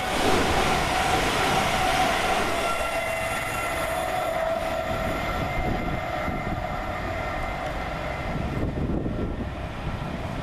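Class 222 Meridian diesel multiple unit running through the station at speed: wheel and rail noise with underfloor diesel engines and several steady tones. It is loudest just after the start and slowly eases away.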